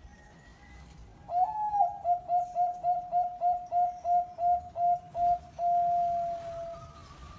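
Zebra dove (perkutut) cooing: about a second in, a quick run of a dozen or so short, evenly spaced notes, ending in one longer drawn-out note.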